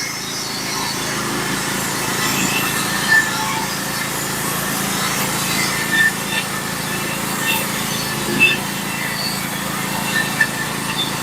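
Small engine of a portable bandsaw sawmill running steadily between cuts, with a few short high chirps over it.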